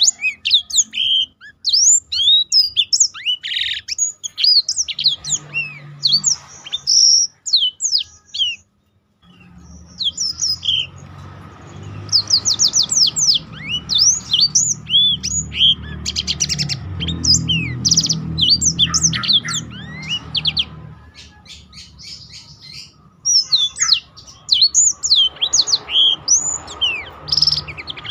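Blackthroats (black-throated canaries) singing in fast, high chirping phrases, more than one bird. There is a brief pause about eight seconds in.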